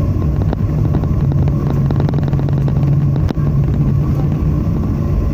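Cabin noise of a Boeing 737-800 after landing: a loud, steady rumble with a low engine drone, broken by frequent clicks and rattles from the cabin fittings.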